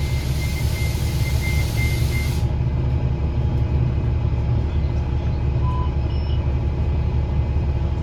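2009 Gillig BRT 40-foot transit bus running, its diesel engine and Voith automatic transmission giving a steady low rumble heard from inside the cabin. For the first two seconds or so a hiss and a pulsing high beep sound over it, then cut off suddenly.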